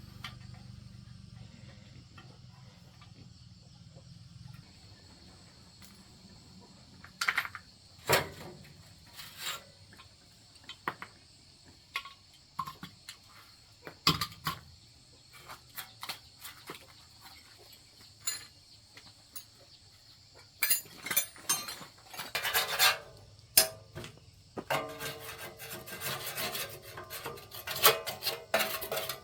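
Scattered clicks and knocks of metal being handled, then, from about two-thirds of the way through, quick repeated scraping strokes, as of rust being scraped or filed off a rusty banana-slicer blade. Crickets chirr faintly and steadily in the background.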